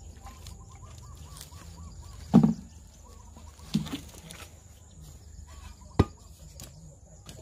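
Birds calling in the background, a faint repeated warbling call, with one short loud pitched call about two and a half seconds in, a fainter one near four seconds, and a single sharp knock about six seconds in.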